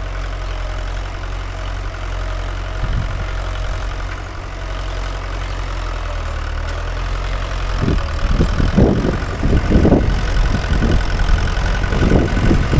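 Mahindra 575 DI tractor's diesel engine running steadily while pulling a nine-tine cultivator. From about eight seconds in, irregular low thumps and rumbling join the engine and the sound grows louder.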